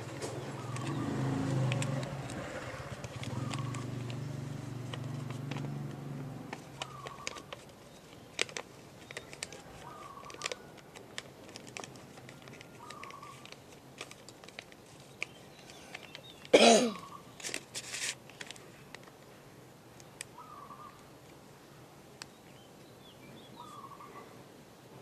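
A bird calling over and over, one short note about every two to three seconds, with scattered light taps and clicks throughout and one loud knock about two-thirds of the way through. A low hum runs under the first few seconds and then fades out.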